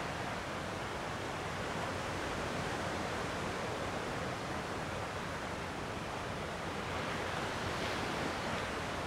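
Gentle sea waves washing on a rocky shore in a steady wash, swelling slightly near the end.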